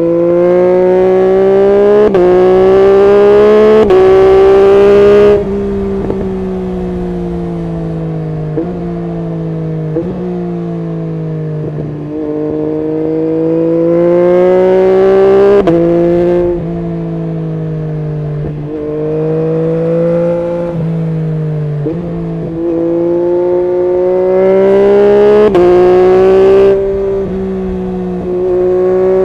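Yamaha MT-09 SP's 890 cc inline-three engine through a full Akrapovic exhaust system, pulling hard through the gears in three bursts. The pitch climbs and steps at each quick upshift, then the engine backs off the throttle and runs steadier between the bursts.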